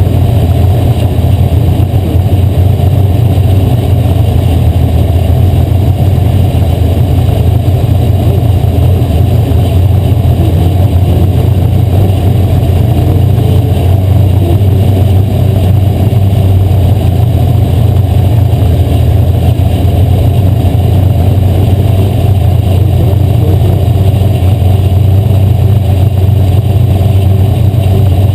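Asphalt modified race car's V8 engine running hard at racing speed, loud and steady with little change in pitch.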